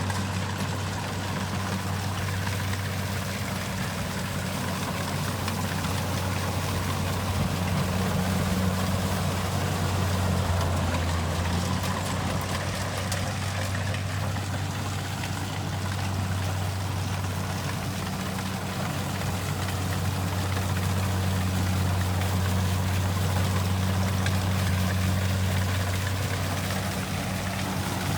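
Kubota rice combine harvester's diesel engine running steadily with a deep drone, its loudness swelling and easing slowly, over the noisy whirr of the machine.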